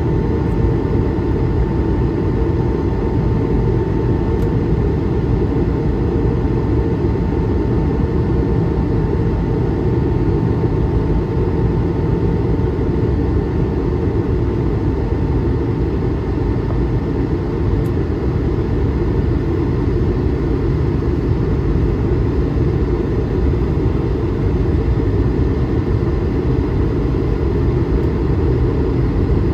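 Steady cabin noise of an Airbus A220-300 in flight: its Pratt & Whitney PW1500G geared turbofans and the airflow make an even low rumble, with a faint steady tone that fades out about halfway through.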